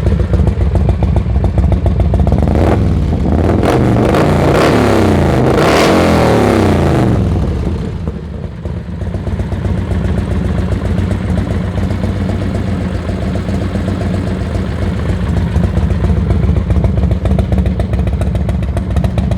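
113-cubic-inch Ultima V-twin motorcycle engine idling, revved in a few quick blips between about three and seven seconds in, then settling back to idle.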